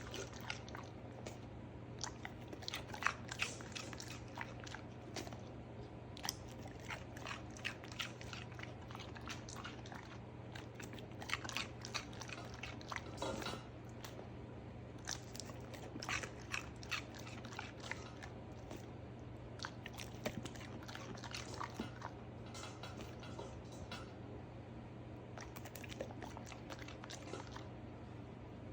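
A pet chewing raw vegetables, with many crisp, irregular crunching bites.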